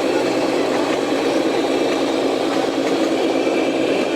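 Radio-controlled model machinery running steadily, an even mechanical hum with no sudden knocks or changes.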